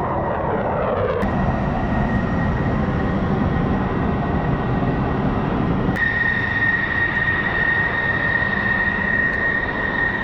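F-16 Fighting Falcon jet engine running with a steady rushing noise and a high whine; the whine becomes much louder suddenly about six seconds in.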